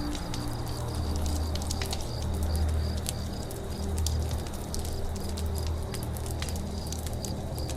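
Campfire crackling with scattered sharp pops, over crickets chirping in a steady, even rhythm about four times a second. A low hum runs underneath and swells around the middle.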